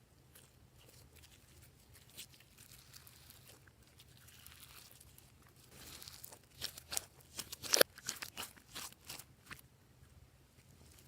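Glossy slime being mixed: a soft, sticky rustle at first, then a run of sharp clicks and pops from about six seconds in, the loudest near eight seconds.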